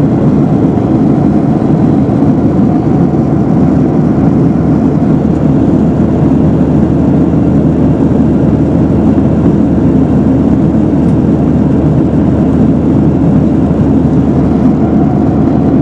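Steady, even engine and airflow noise of a passenger jet heard inside the cabin, a low rumble that does not change.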